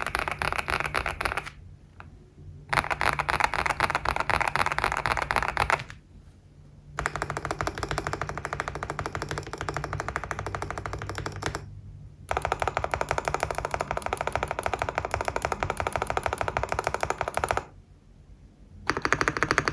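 GMK67 mechanical keyboard with factory-lubed Vertex V One switches and ABS Cherry-profile keycaps being typed on fast, keystrokes running together into a thock. The typing comes in four runs of several seconds, with short pauses of about a second between them.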